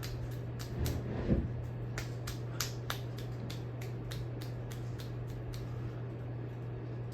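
Hampton Bay Minuet II 32-inch ceiling fan running: a steady motor hum with a regular ticking about three times a second that fades out near the end. One low thump about a second in.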